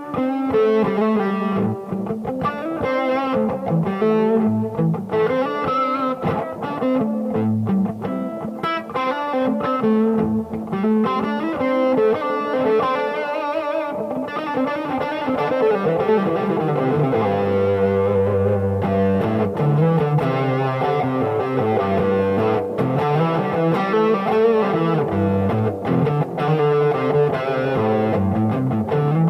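Distorted electric guitar played solo: quick single-note runs with bends and vibrato, moving about halfway through to lower, longer-held riffing.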